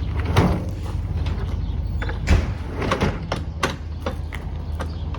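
A steady low hum with a run of sharp, irregular clicks and knocks.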